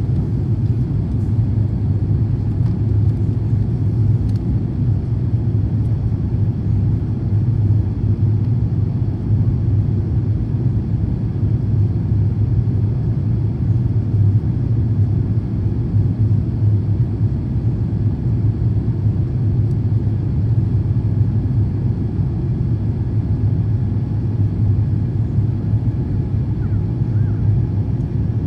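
Steady low rumble of cabin noise inside an Airbus A350-1000 in flight, the airflow and its Rolls-Royce Trent XWB engines heard from a passenger seat.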